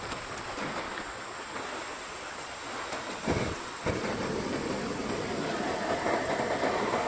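Steady rushing of water in a forest stream. About halfway through come two brief thumps, and after them the rushing is louder.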